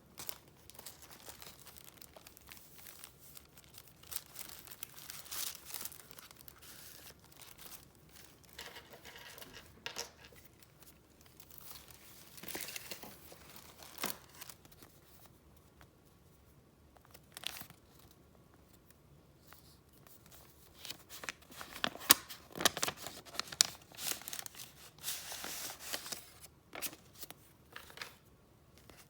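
Paper and packaging handled by hand, rustling and crinkling in irregular bursts, with a few sharper crackles. It goes quiet for a few seconds past the middle, then comes back busiest and loudest near the end.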